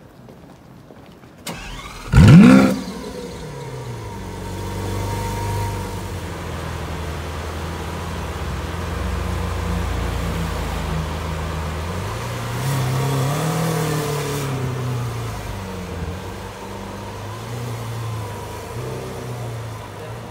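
Lamborghini Aventador's V12 starting: a brief crank, then a loud flare of revs that rises and drops about two seconds in. It settles to a steady idle, revs up and back down once a little after halfway, and then moves off slowly near the end.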